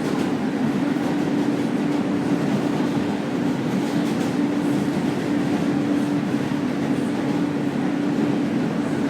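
Subway train running steadily, a constant rumble and rush of noise with a steady low hum throughout.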